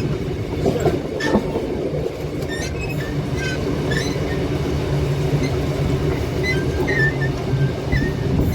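Carriages of a steam-hauled train running along the track: a steady rumble, with short, scattered high squeals from the wheels and a few clicks from the rails.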